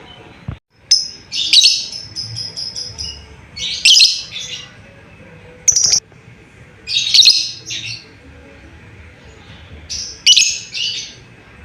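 Lovebird giving loud, shrill chirping calls in short bursts every second or two, with a quick run of repeated notes about two seconds in. These are calls to its companions, the kind used to draw an answer from other lovebirds.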